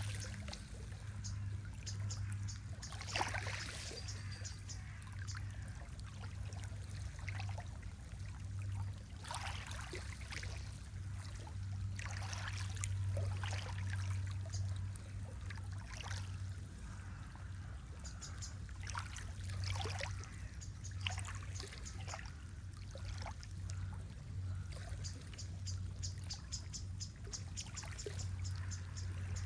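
Lake water lapping and trickling over a steady low rumble, with small birds chirping and trilling on and off throughout.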